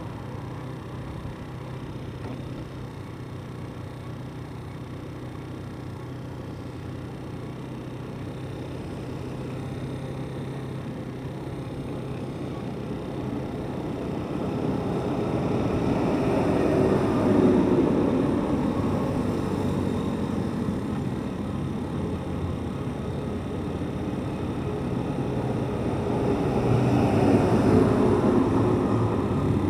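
Motorcycle engine running steadily at low speed. Road noise swells louder twice, about halfway through and again near the end, as other traffic passes.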